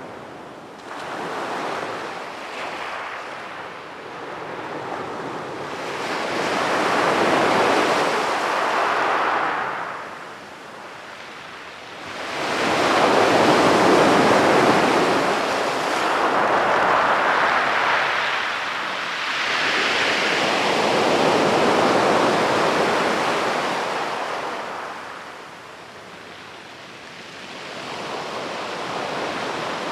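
Sea waves breaking and washing up the beach in slow surges. Each surge swells and fades over several seconds, with quieter lulls about ten seconds in and again near the end.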